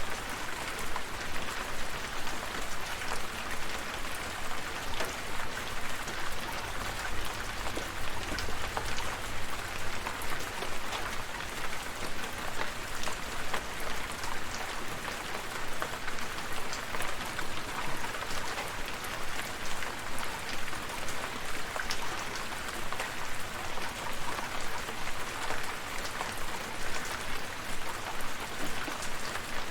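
Steady rain falling, with many individual drops heard as sharp ticks over an even hiss.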